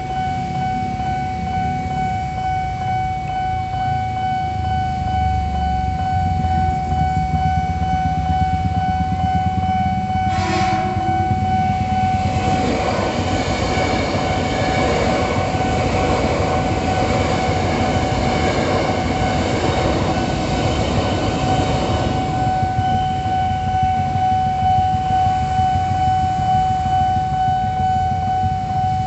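Railroad crossing warning alarm sounding a steady ringing tone throughout, over a low rumble of idling traffic. A short train horn sounds about ten seconds in, then an electric commuter train passes for about ten seconds with wheels rumbling on the rails.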